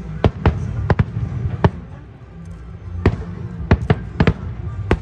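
Fireworks shells bursting overhead: a quick series of sharp bangs, about five in the first two seconds, a short lull, then about six more in the last two seconds, over a low steady rumble.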